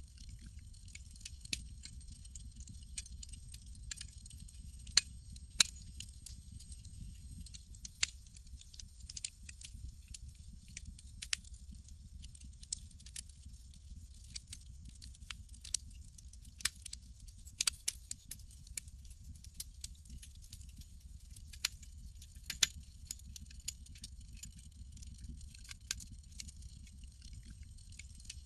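Campfire crackling: irregular sharp pops and snaps, a few of them much louder, over a steady low rumble.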